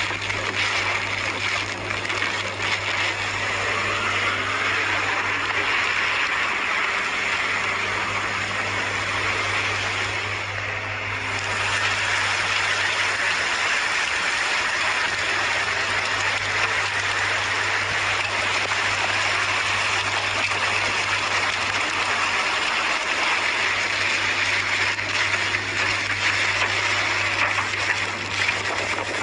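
Floodwater rushing steadily down a wadi, with a low steady hum underneath and a brief dip about ten seconds in.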